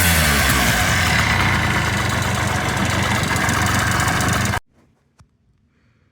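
Modified Honda Dio AF18 scooter's two-stroke engine, bored and stroked to 88.9cc, idling steadily after a rev dies down. The sound cuts off suddenly about four and a half seconds in.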